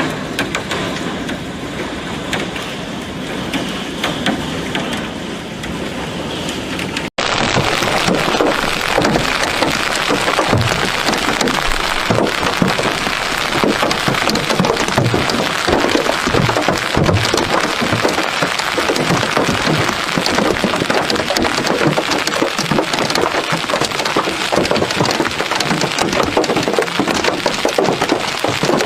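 Hail and heavy rain pounding down, a steady hiss of impacts. After a cut about 7 seconds in it gets louder and denser, a continuous clatter of many hailstones striking.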